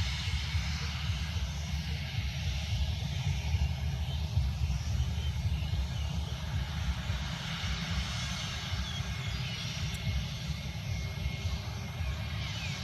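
Airliner engines running steadily, a continuous noise with a fluctuating low rumble beneath it.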